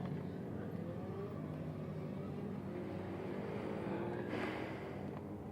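Small single-cylinder pit bike engine running, its revs climbing from about three seconds in, with a short rush of noise near the end.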